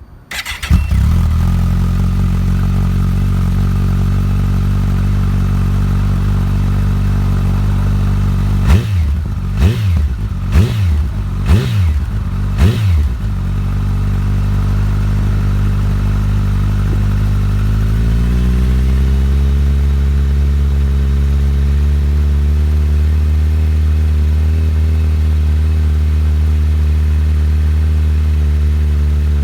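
Kawasaki ZX-14R inline-four running through a Yoshimura aftermarket exhaust: it idles steadily, is blipped up and back down five times in quick succession, then settles at idle again before the revs rise and hold at a higher steady speed.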